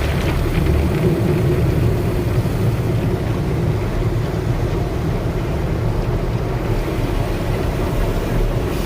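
Car wash equipment working on a car: a steady, loud rumble and rush of noise with no breaks.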